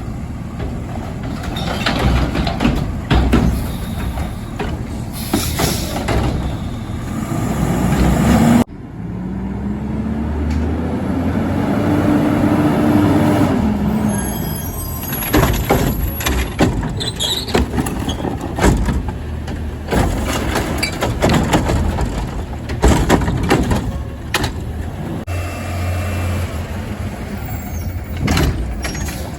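Front-load garbage truck at work: its engine revs up and falls back again, amid repeated metal bangs and clanks.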